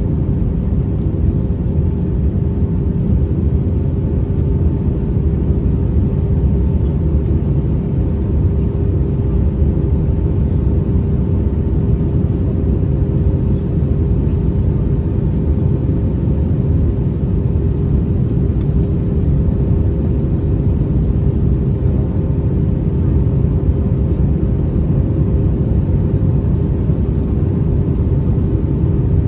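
Airbus A321neo airliner's jet engines running steadily: a deep, unchanging rumble with a few steady whining tones over it.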